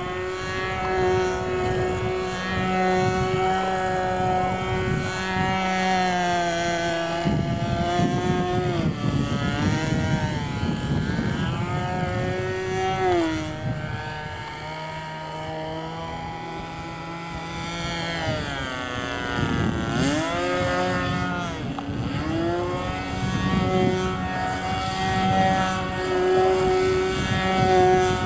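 Two-stroke glow engine (Thunder Tiger .42) of a radio-controlled model airplane in flight, its whine rising and falling in pitch as it manoeuvres and passes by, with a sharp drop in pitch as it flies past about two-thirds of the way through.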